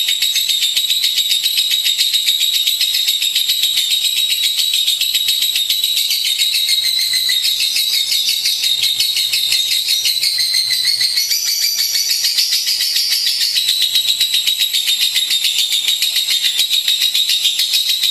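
Lovebird singing a long, rapid, high-pitched chattering trill without a break.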